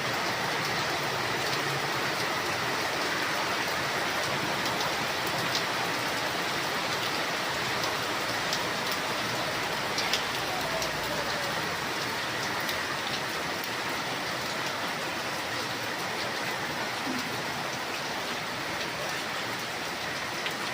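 Steady rainfall: an even hiss with scattered sharper drop ticks.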